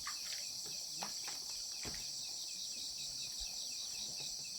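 Insects, crickets or cicadas, droning steadily in a high-pitched chorus, with a fainter evenly pulsed chirping beneath it and a couple of faint knocks.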